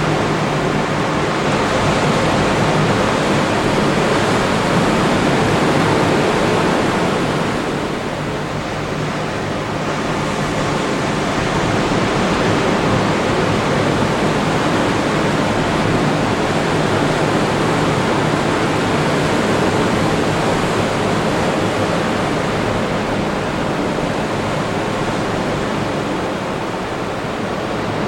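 Atlantic surf breaking on the beach: a continuous wash of waves, easing a little about eight seconds in and then building again.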